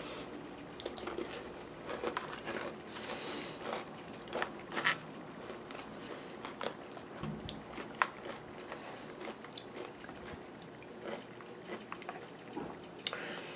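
Close-up chewing of crunchy granola in yogurt: a mouthful of granola with sliced almonds crunching in irregular crisp bites.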